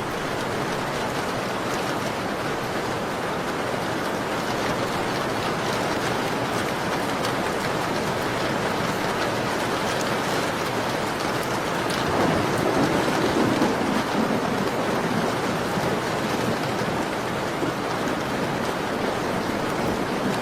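Steady rainfall, an even wash of falling rain. About twelve seconds in, a low rumble swells briefly and fades.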